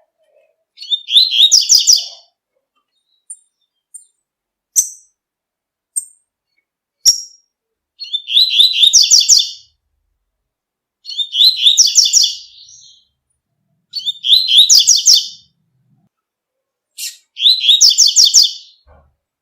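Double-collared seedeater (coleiro) singing its tui-tui song: five short phrases of quick repeated high notes a few seconds apart, with single sharp chips between the first two phrases.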